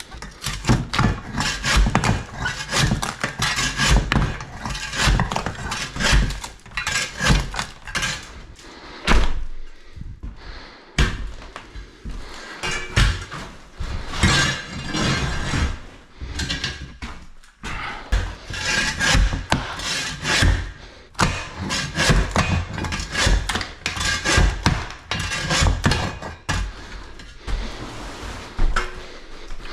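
Repeated irregular knocks, thuds and scraping from hands-on renovation work on wood, with brief lulls about a third and halfway through.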